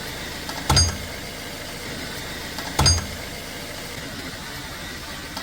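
Front-left suspension of a 2018 Volkswagen Tiguan knocking twice, about two seconds apart, each knock short and deep with a brief high squeak on top: the suspension noise the owner is trying to track down.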